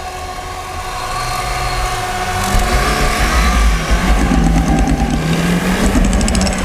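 Lada Niva's engine revving hard, getting louder from about a second in and loudest in the second half, with the pitch rising and falling. The car is climbing a snowy slope on summer tyres with its front wheels spinning and throwing snow as they lose grip.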